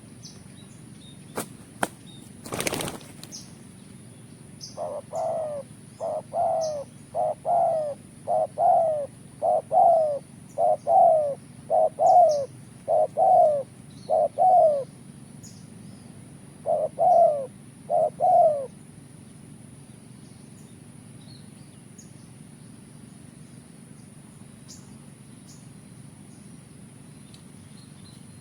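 Spotted dove (tekukur) cooing, a run of about ten short repeated notes, a pause, then two more. A short burst of wing flapping comes about three seconds in, with faint chirps of small birds behind.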